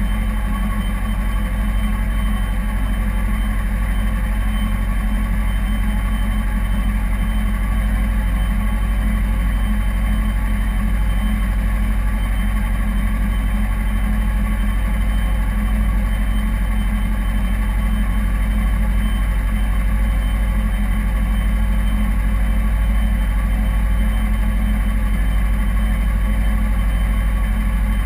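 2009 Kawasaki Ninja 250R's parallel-twin engine running steadily at a constant pitch, with no revving.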